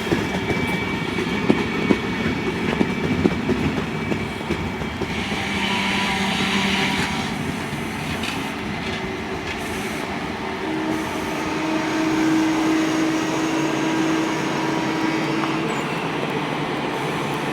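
Train running along the tracks. Its wheels click sharply over rail joints in the first few seconds, then give way to a steady rolling rumble. A held whine comes in during the second half.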